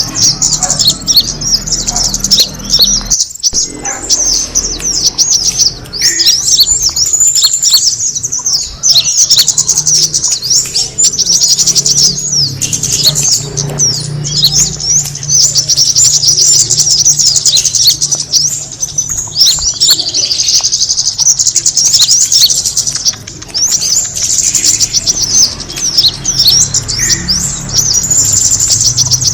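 Kemade bird calling in fast, high-pitched chirps and twittering trills, almost without pause, as a lure call to attract other birds of its kind.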